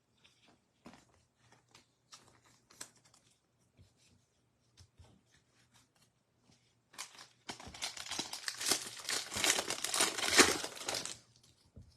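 Faint handling clicks, then about seven seconds in a trading-card pack's foil wrapper crinkling and tearing open for about four seconds.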